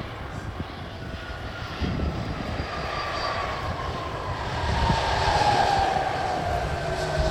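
An airliner's engines passing close by, their whine sliding steadily down in pitch over a low rumble and growing loudest about five seconds in.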